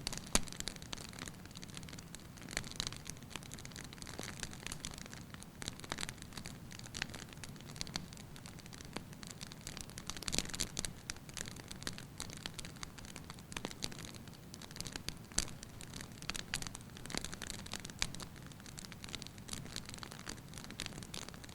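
Firewood burning in a fireplace: a steady low rush of flame with light, irregular crackles and pops of the wood, a few of them sharper than the rest.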